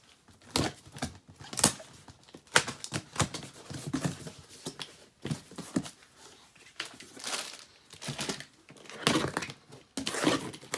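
Parts of a motorized-bicycle engine kit being handled: irregular clicks and knocks, with stretches of rustling.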